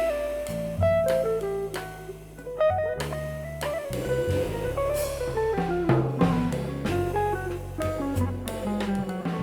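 Instrumental trio playing live: electric guitar picking out a single-note melody over electric bass and a drum kit keeping time with cymbals.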